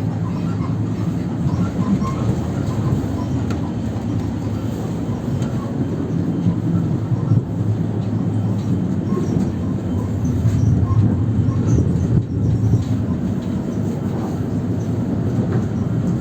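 Ivolga EG2Tv electric train running, a steady low rumble with many short squeaks and creaks scattered through it: the train squeaks a lot.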